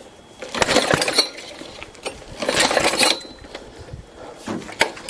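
Lawn mower engine's recoil starter pulled twice, a short rattling whir each time, with a shorter third pull near the end. The engine turns over but does not catch, with only a little choke on.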